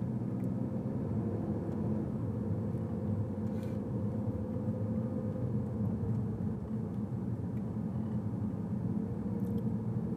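A car being driven: steady, low engine and road noise.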